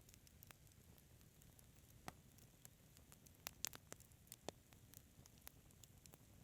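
Wood fire crackling softly in a fireplace: scattered sharp pops and snaps over a faint hiss, with a quick run of louder pops around the middle.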